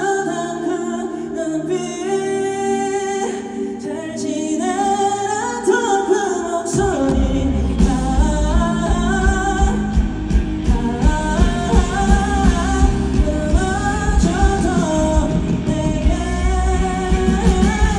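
Live pop music: a singer with a band. A soft opening of voice over held chords gives way about seven seconds in to full band with drums and bass and a steady beat.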